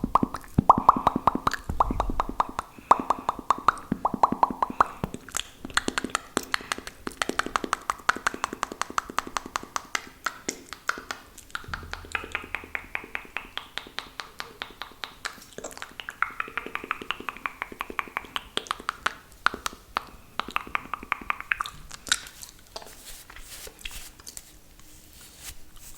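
Close-miked wet mouth sounds: rapid runs of spit clicks and lip smacks, many per second, with short pauses between runs.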